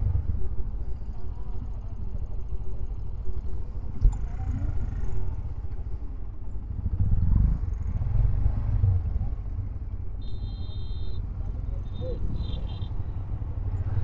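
Several 125cc single-cylinder motorcycles idling at a standstill, one of them a Honda SP 125. A steady low engine rumble that swells for a couple of seconds about seven seconds in.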